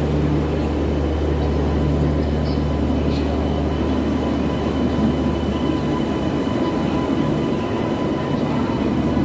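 An Indian Railways locomotive pulling slowly into a station platform, with a steady low hum and a thin steady high tone. About two-thirds of the way through, the hum gives way to the rumble of the passenger coaches rolling past.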